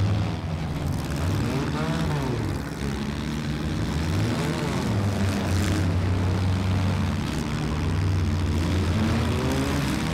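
Several stock four-cylinder demolition derby cars' engines running and revving together, their pitches repeatedly rising and falling over a steady low drone.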